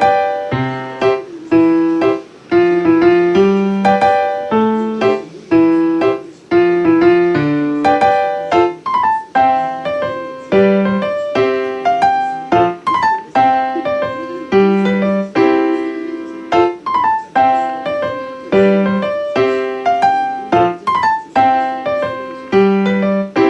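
Background piano music: a melody of struck notes over a repeating lower accompaniment.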